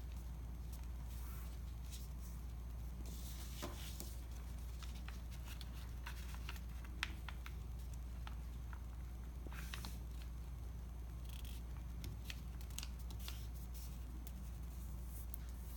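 A sheet of paper being handled and folded: scattered soft crackles, creases and taps, with one sharper tap about halfway, over a steady low hum.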